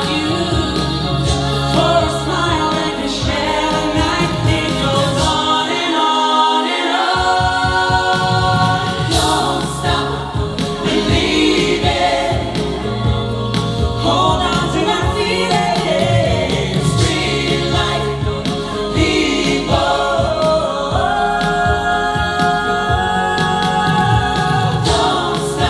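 Live vocal ensemble singing in multi-part choir-like harmony over a band's backing, with no clear lyrics. The bass drops out briefly about six seconds in.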